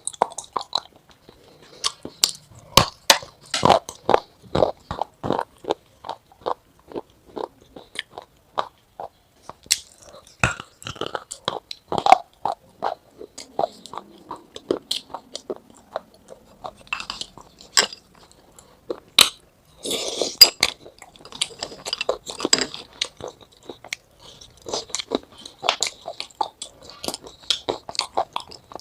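Irregular run of sharp, close crunching and clicking sounds, in dense clusters with short pauses between.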